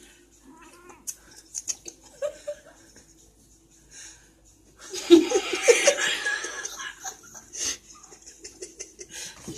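People laughing: a loud burst of laughter about five seconds in that lasts about two seconds, with quieter short sounds before and after.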